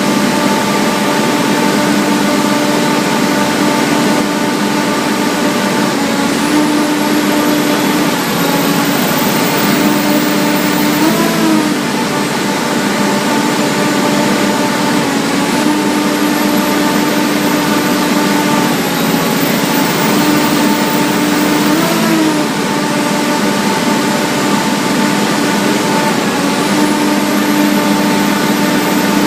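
Cummins diesel generator engine running at constant speed under electrical load-bank testing. A faint high whine rises, holds and falls away about every ten seconds, and the engine note flickers briefly near the middle and again about two-thirds through.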